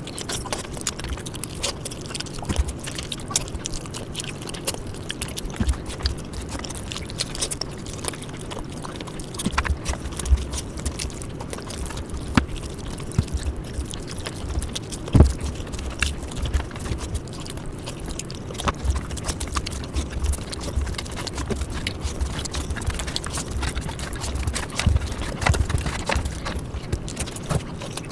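Close-miked chewing of mutton curry, with frequent small wet clicks and mouth smacks over low thuds, and one sharper click about halfway through.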